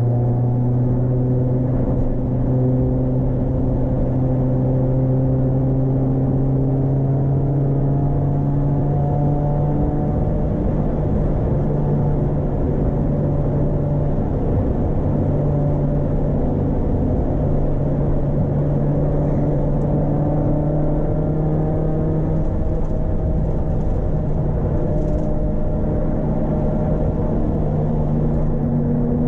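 Proton Wira 1.6 XLi's 4G92P four-cylinder engine pulling steadily on the road, its note creeping slowly higher over the first third and then holding at fairly constant revs, with road noise underneath.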